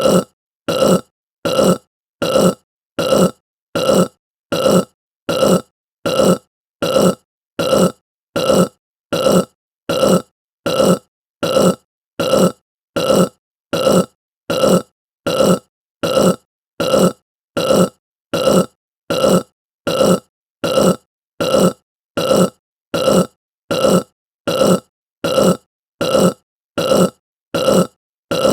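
A short human burp repeated over and over at an even pace, about three every two seconds, each burst alike, with silence between them.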